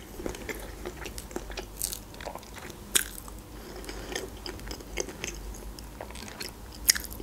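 Close-miked chewing and mouth sounds of a person eating, with many small wet clicks. Two sharper clicks stand out, about three seconds in and near the end.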